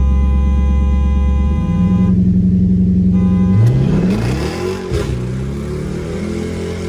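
A car horn sounds a long blast and then a short one over an idling engine, signalling the start of a race. The engine then revs up hard as the car launches, its pitch climbing, dropping at a gear change, and climbing again.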